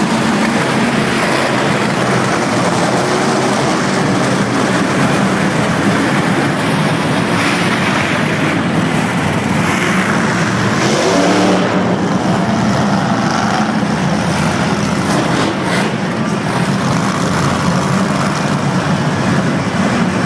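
Monster truck engine running loud and continuously, with revving that wavers up and down in pitch around the middle.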